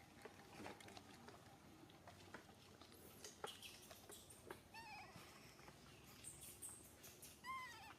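Baby monkey giving a few faint, short high squeaky calls, each rising and falling in pitch, about five seconds in and again near the end, among light clicks and rustles.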